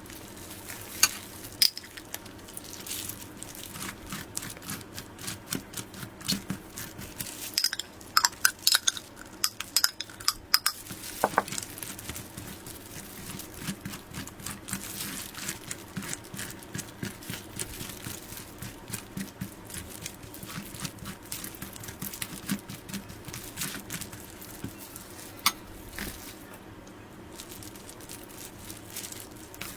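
Close-miked eating of soft cream-filled sponge cake rolls: a constant run of wet, sticky chewing and squishing clicks. A few sharper, louder clicks come about a second in, in a cluster around a third of the way through, and once more near the end.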